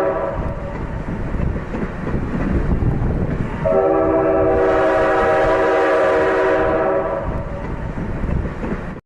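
A boat horn, dubbed over a train, sounds over the steady rumble and clatter of the passing train. One blast ends just after the start, and a second starts about three and a half seconds in and lasts about three seconds. Everything cuts off abruptly at the end.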